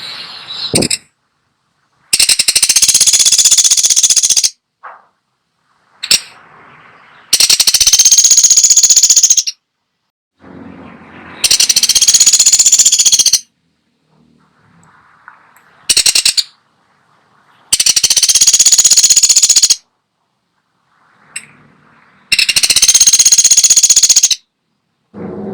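Pelatuk sampit woodpecker giving loud, high-pitched rattling calls, each a very fast run of pulses lasting about two seconds, repeated about six times with short pauses between.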